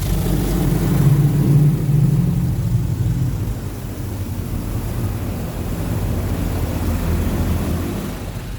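Touchless automatic car wash running around the vehicle, heard from inside the car: a steady low machine drone with a hiss of spray over it, loudest about a second in.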